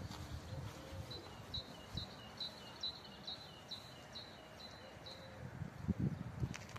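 A small bird singing a repeated two-note phrase, a high note then a lower falling one, about ten times at roughly two a second before it stops. Low wind rumble runs underneath and swells near the end.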